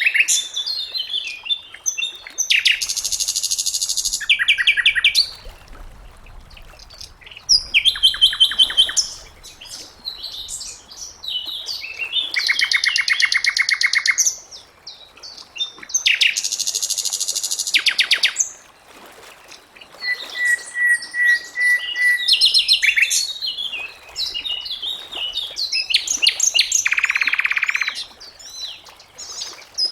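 Sikatan londo (flycatcher) singing a varied song: short phrases of rapid high trills and chirps, one after another with brief pauses between them.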